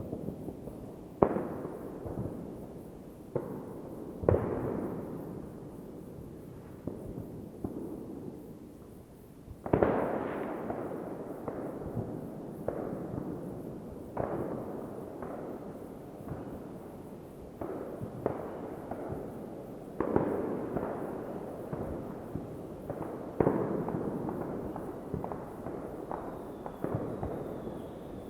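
New Year's Eve fireworks going off: a string of sharp bangs every second or two, each with a rolling echo, over continuous crackling. The loudest bursts come about 1, 4, 10, 20 and 23 seconds in.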